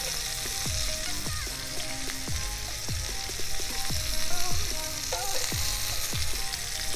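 Bite-size chicken, bell pepper, tomato and onion skewers frying in oil in a cast-iron skillet: a steady sizzling hiss.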